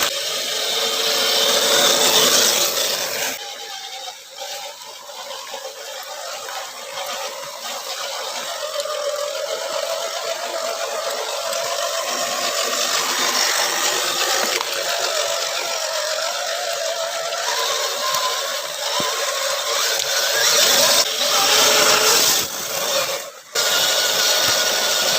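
Electric motor and gear train of a 1/10-scale Axial SCX10 RC crawler whining as it drives off-road, the pitch rising and falling with the throttle. The sound cuts out for a moment near the end.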